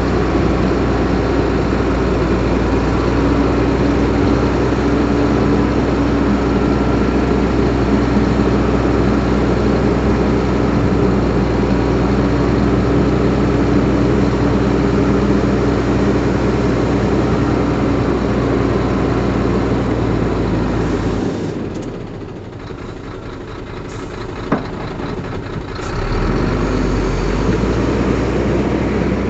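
Heavy earthmoving diesel engine running steadily with a deep, even note. Near the end it drops away for about four seconds, with one sharp click in the lull, then comes back at full level.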